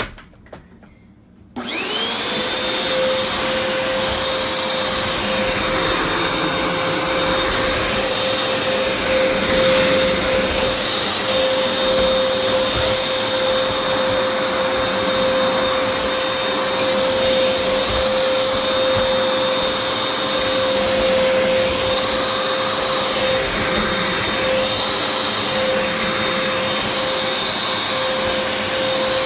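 Hoover FloorMate hard-floor cleaner in vacuum mode: a click, then about a second and a half in the motor spins up with a quickly rising whine. It settles into a steady whine over rushing air.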